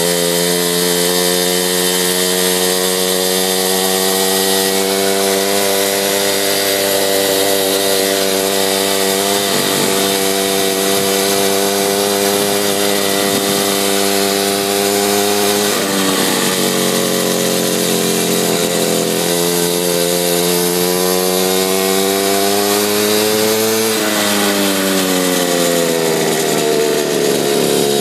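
Mini bike's small engine running, its speed dipping and rising again a few times during the ride.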